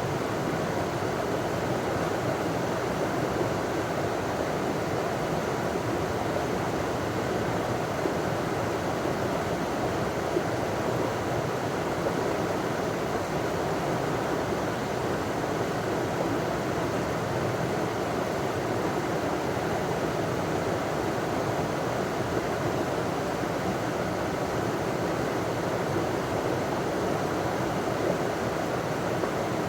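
River water pouring over a small waterfall: a steady, unbroken rush.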